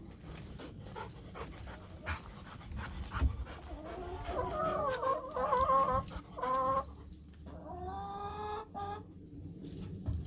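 Wild birds calling: a short, high double chirp repeated every second or so, and louder, lower wavering cries in the second half.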